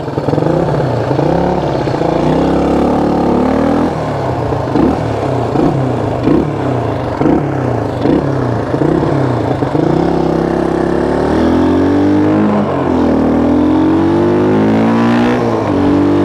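1974 Honda XL175's single-cylinder four-stroke engine revving up and down as the bike is ridden. The pitch rises and falls in short repeated surges through the middle, then climbs in two longer pulls in the second half.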